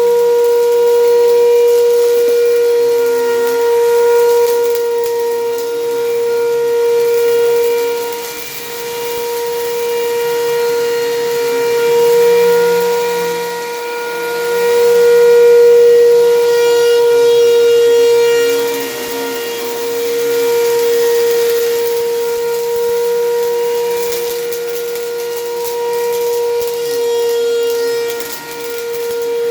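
Bagless vacuum cleaner running with a steady high whine, its loudness swelling and dipping as it is pushed back and forth over carpet.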